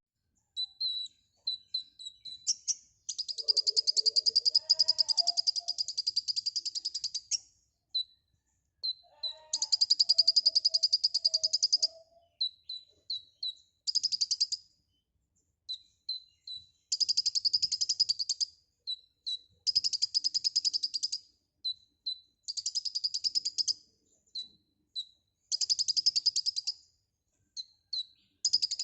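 A kolibri ninja sunbird singing vigorously. It gives long, fast, buzzy high trills of one to four seconds, separated by short sharp chirps, with some lower warbling notes woven in twice early on.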